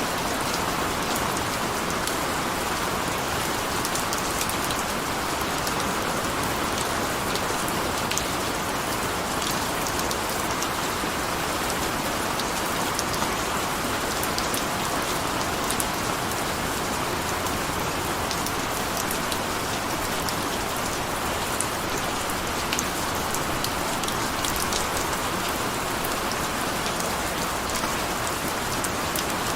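Steady rain falling, an even hiss with many small pattering drop ticks.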